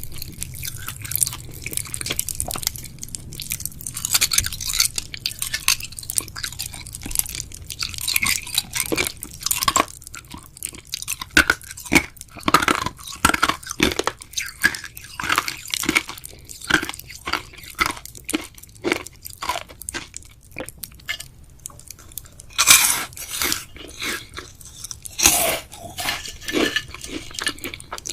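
A person chewing and biting jelly and gummy candies: a dense run of sticky, wet mouth crackles and crunches, with a couple of louder bursts of bites near the end.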